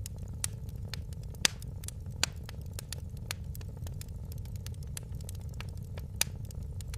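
Wood fire crackling in a fireplace: irregular sharp pops and snaps over a steady low rumble of the flames, with a louder pop about a second and a half in.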